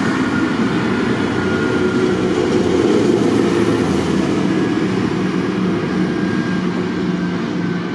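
Tractor engine running steadily, a constant low drone with no breaks.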